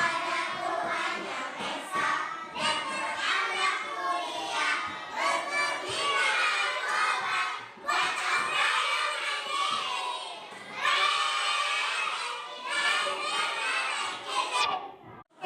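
Many young children's voices shouting and chattering at once, high voices overlapping without a break, with a short drop-out just before the end.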